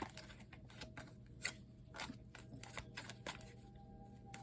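Faint, scattered soft clicks and taps of tarot cards being handled and laid down, over a low steady hum.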